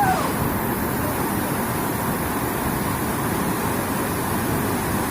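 Steady rush of a waterfall's falling water, with a brief voice call right at the start.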